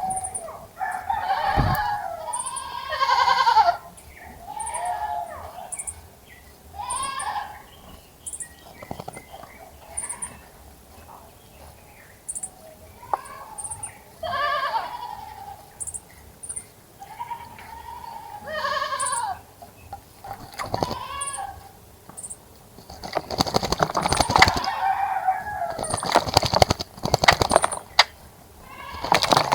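Goats bleating again and again, each bleat a wavering call of about a second, while a small bird chirps repeatedly in short high notes. Late on comes a run of rapid splashing and fluttering as a bird bathes in the bird bath.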